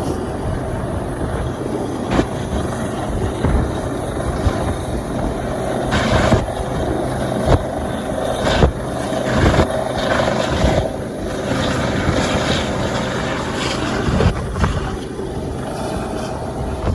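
Rescue helicopter hovering, its rotor and engine running steadily, with irregular gusts of wind buffeting the microphone.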